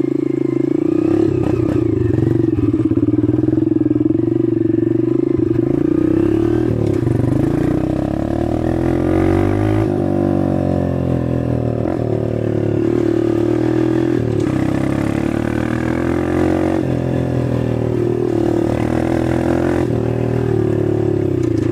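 Dirt bike engine running while being ridden, its pitch rising and falling as the throttle opens and closes.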